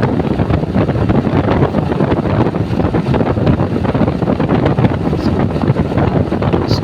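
Wind buffeting the microphone of a motorcycle moving at highway speed, a loud steady rush with the bike's running noise mixed in.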